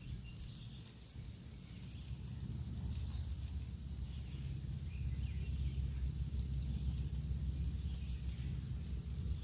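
Campfire burning, with scattered small crackles and pops over a steady low rumble. Faint bird chirps come through now and then.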